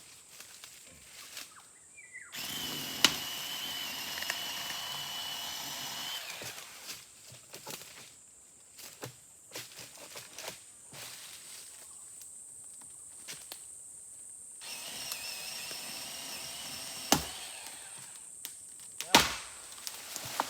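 Chopping blows into a tree trunk: a few sharp wooden strikes spaced well apart, one about three seconds in and two close together near the end, with lighter knocks in between.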